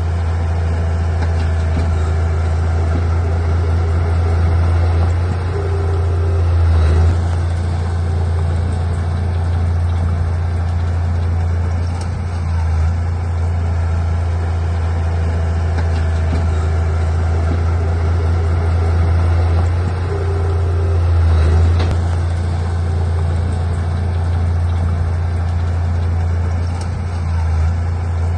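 Heavy diesel engine of earthmoving equipment running steadily with a deep low hum, swelling in level a few times, around seven, twenty-one and twenty-seven seconds in.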